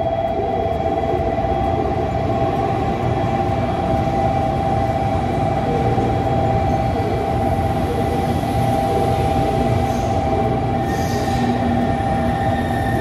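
JR Kyushu 787-series '36ぷらす3' electric train rolling slowly into a station platform: a steady rumble of wheels on rail with a continuous mid-pitched hum. A thin, high squeal joins about eleven seconds in as the train slows.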